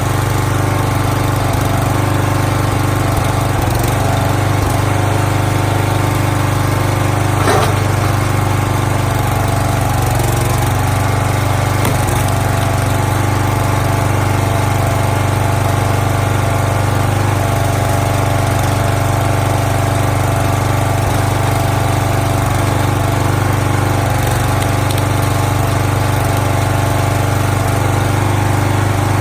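Small gasoline engine of a log splitter running steadily at constant speed.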